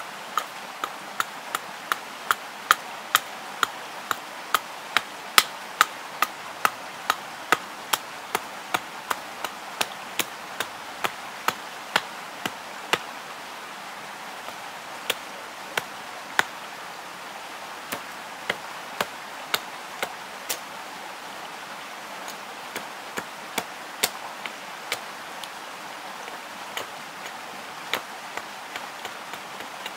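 Knife chopping against wood while making çöp şiş kebab skewers: sharp taps about two a second, in runs broken by pauses, over a steady hiss.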